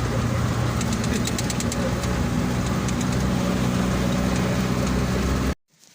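Truck engine running steadily with a low hum and scattered light rattling ticks; the sound cuts off abruptly near the end.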